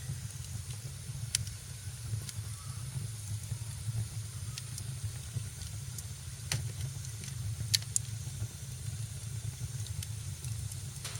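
Wood fire in a fireplace crackling: scattered sharp pops and snaps, the loudest about two thirds of the way through, over a steady low rumble and hiss.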